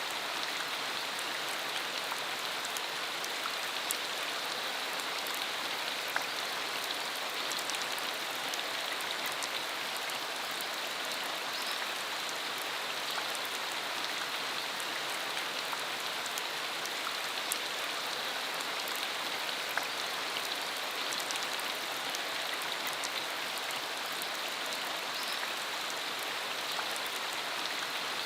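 Steady rain falling, an even hiss with scattered droplet ticks.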